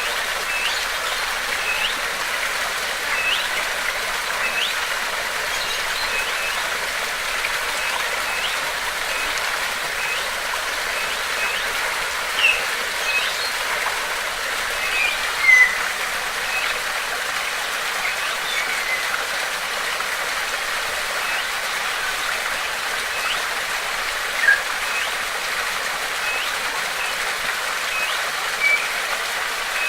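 Water rushing steadily in a stream or waterfall, with a bird repeating short chirps about once a second over it and a few louder calls standing out now and then.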